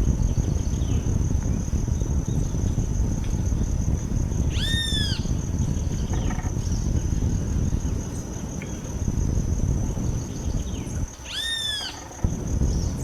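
Two clear bird calls about seven seconds apart, each a short note that rises and falls in pitch. They sit over a steady high insect buzz and a low rumble.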